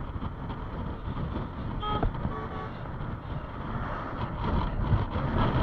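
Road and traffic noise with a steady rumble, and a vehicle horn tooting briefly about two seconds in, followed by a few short beeps.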